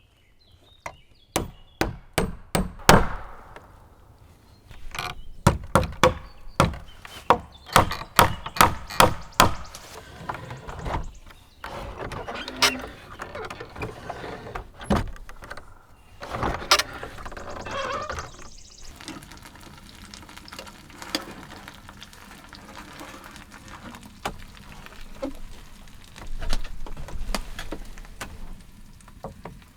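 Wood being chopped: two runs of quick sharp blows, about three a second, in the first ten seconds, followed by irregular knocking and rustling.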